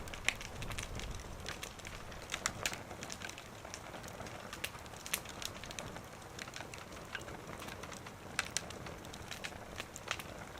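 Wood fire burning in a small wood stove, crackling with irregular sharp pops and snaps, a few louder than the rest.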